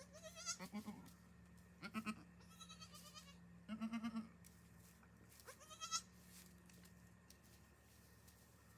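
Newborn goat kids bleating: about five short, quavering, high-pitched bleats in the first six seconds, then quiet.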